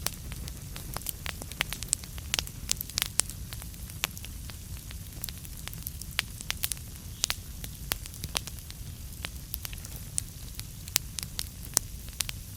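Burning wood fire crackling: irregular sharp pops and snaps, several a second, over a steady low rumble of the flames.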